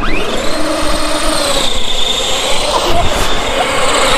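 Radio-controlled car's electric motor whining at high speed under load. The whine rises over the first half second, then holds steady over a continuous hiss from its tyres spinning on wet ice.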